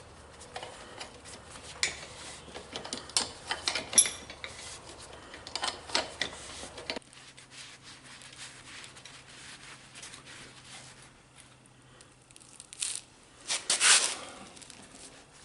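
Intermittent clicks, light metal clinks and scraping as tools and engine parts are handled, with a longer, louder scrape about fourteen seconds in.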